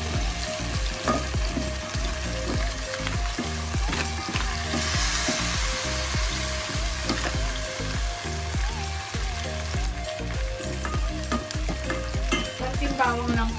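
Kimchi frying and sizzling in hot oil in a nonstick frying pan, with garlic frying in a steel pot beside it. Utensils stir and scrape through both pans, making frequent small clicks.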